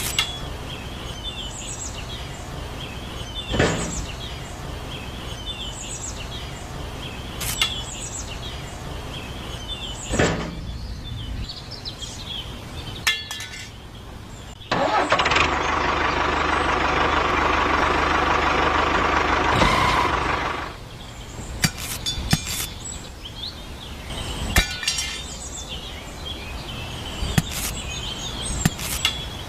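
A small motor starts suddenly about halfway through, runs with a whine for about six seconds, then winds down. Around it are short chirps about once a second and a few sharp clicks.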